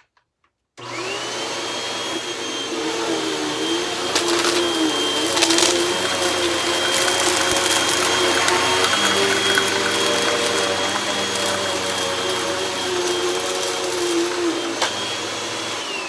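Hoover Rewind upright vacuum cleaner switched on about a second in, its motor whining up to speed, then running steadily with a few brief clicks as it passes over shredded paper on carpet. Near the end it is switched off and the whine starts to fall.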